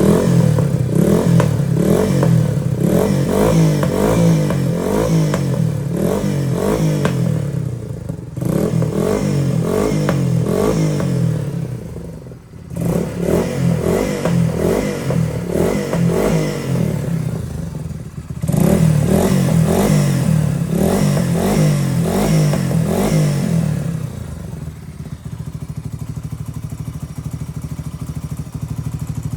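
Yamaha TW200's air-cooled single-cylinder four-stroke engine being revved over and over, dropping back briefly three times. It settles into a steady, quieter idle for the last few seconds.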